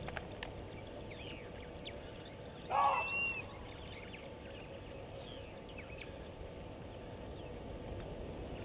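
Wild birds calling at a waterhole: scattered faint chirps, and one louder short call about three seconds in, over a steady low outdoor background.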